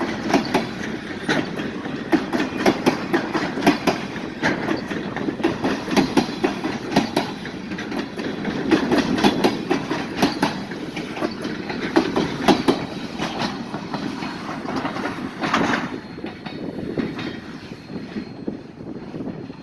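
Railcars of a passing train rolling by, the wheels clicking and clattering over the rail joints above a steady rumble. The clatter eases a little in the last few seconds.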